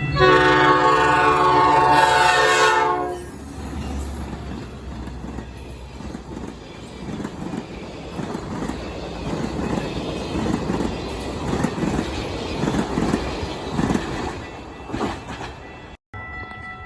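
Metra commuter train sounding its multi-note air horn for about three seconds, then rolling past with a steady rail rumble and a rhythm of wheel clacks over the rail joints.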